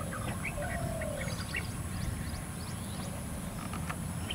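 Small birds chirping in short, scattered notes over a steady low rumble, with most of the chirps in the first second and a half.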